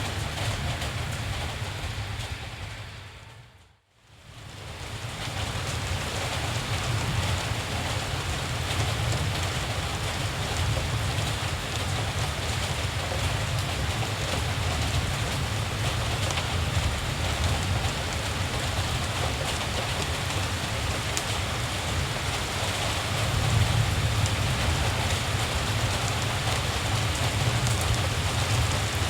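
Steady rain falling, an even hiss over a low steady rumble. About four seconds in it fades out to near silence and swells back in.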